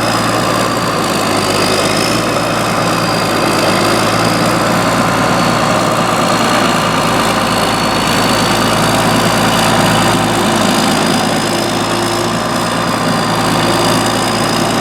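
Freshly rebuilt John Deere 6068 inline-six diesel running steadily at idle through a straight pipe with no muffler, with a thin high whine that wavers slightly in pitch.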